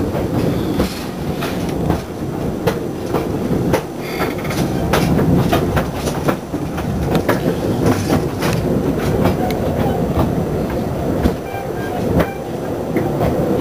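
Talyllyn Railway narrow-gauge steam train under way, heard from inside a semi-open carriage: a steady running rumble with the wheels clicking over the rail joints many times.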